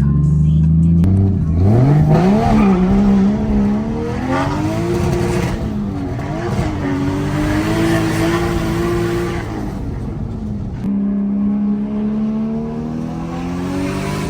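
Car engine accelerating hard, its pitch climbing and dropping several times as it shifts through the gears, then running steadily over the last few seconds.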